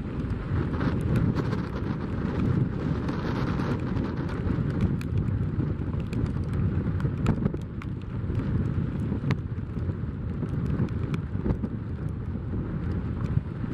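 Strong gusty wind buffeting the microphone as a steady low rumble, with scattered sharp ticks of rain striking it.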